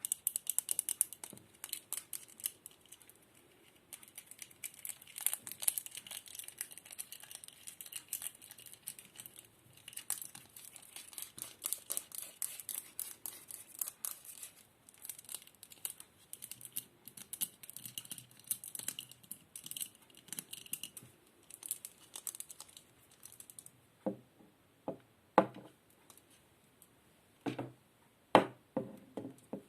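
ASMR crinkling trigger: dense, fine crinkling and crackling of a crinkly material being handled close to the microphone. About three-quarters of the way through it stops and gives way to a few separate, louder taps.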